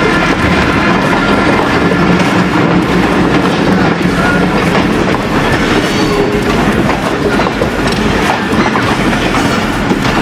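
Passenger train pulling into the station, its wheels clattering on the rails in a loud, steady rumble.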